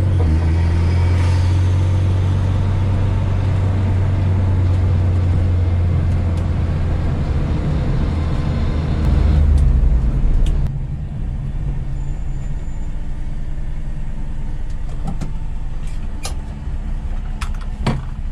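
Car engine running with a deep steady drone, swelling briefly a little past halfway, then dropping abruptly to a quieter, lower idle. A few sharp clicks come near the end.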